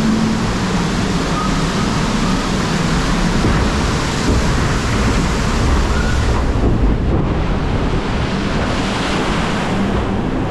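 Water rushing and splashing around a river-rapids raft, with wind buffeting the microphone. The hiss dulls briefly about seven seconds in.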